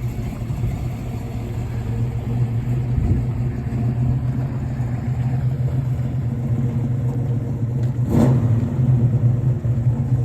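1967 Chevelle SS 396 big-block V8 running with a steady low rumble, then a sudden sharp burst about eight seconds in as it pulls away, running louder after it.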